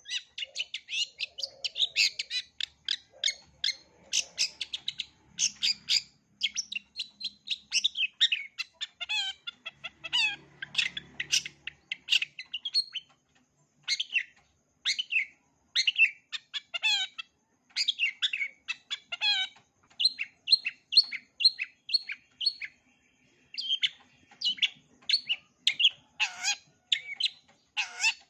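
Long-tailed shrike (cendet) singing a fast, near-continuous run of sharp chirps and quick slurred notes, stringing together mimicked calls of other birds, with two short pauses.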